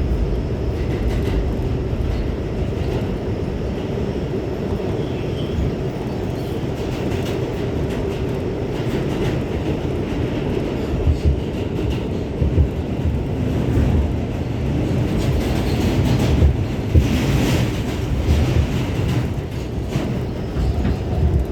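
New York City subway A train running at speed in the tunnel, heard from inside the car: a steady low rumble with wheels clattering over the rails. There are several louder clanks in the second half.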